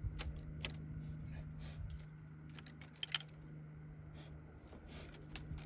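Scattered light metallic clicks and clinks of hand tools and loosened bolts while a car starter is being unbolted, over a steady low hum.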